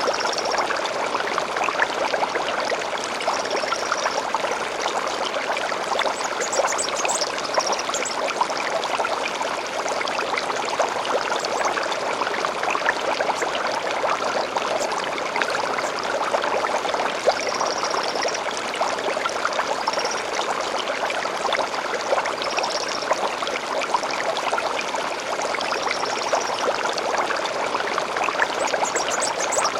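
Small stream flowing steadily with a continuous trickling, burbling rush. Brief high bird calls come in every few seconds over the water, with a quick run of higher chirps about seven seconds in and again near the end.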